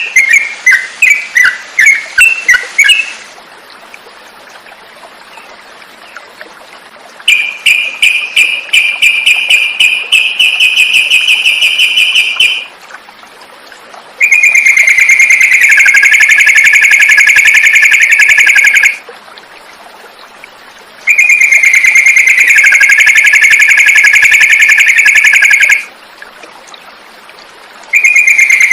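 Yellow-vented bulbul (trucukan) song: a quick burst of chirps, then a run of rapid repeated notes, then long, dense trills of about five seconds each with short pauses between them.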